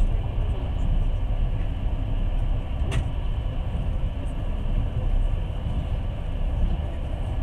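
Passenger train running along the line, a steady rumble of wheels and carriage heard from inside the car, with one sharp click about three seconds in.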